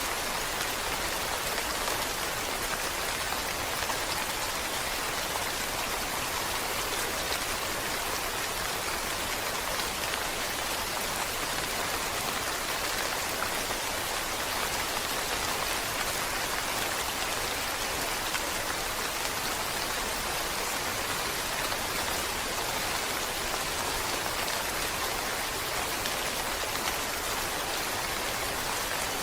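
Steady rain falling and pattering on surfaces, a dense even hiss with no let-up.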